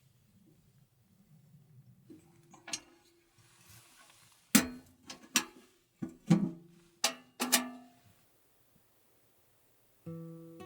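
A series of sharp knocks, each with a short ringing tone, most of them bunched in the middle seconds. Acoustic guitar music starts near the end.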